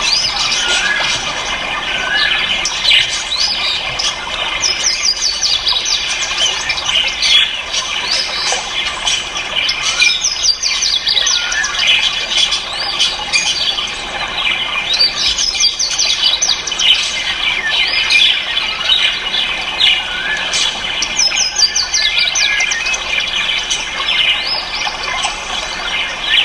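A dense chorus of many caged ornamental birds calling over one another, a steady tangle of quick rising and falling chirps with no pause.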